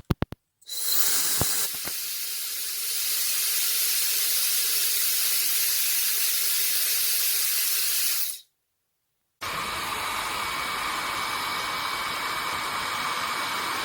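Brushless-motor ionic hair dryer blowing: a steady rush of air after a few quick clicks. It cuts out abruptly about eight seconds in and starts again a second later, now with a thin steady whine over the airflow.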